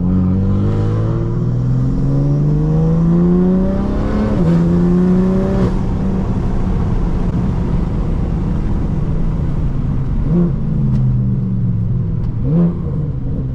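BMW F80 M3's S55 twin-turbo inline-six through a Valvetronic Designs equal-length exhaust, accelerating with the note climbing steadily for about four seconds, then an upshift that drops the pitch. It then runs at a steadier note under road noise, with two short rev blips near the end.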